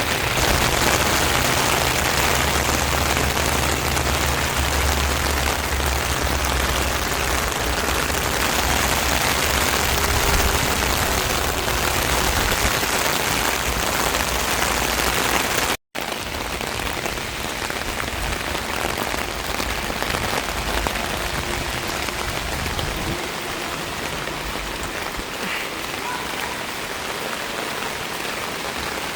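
Boat under way: a steady rushing of water and wind with a low engine hum. After a sudden cut about sixteen seconds in, the rushing goes on with less of the hum.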